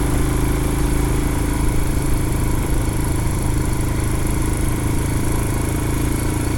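Royal Enfield Himalayan's 411 cc single-cylinder engine running steadily under way off road, with rushing noise over the microphone.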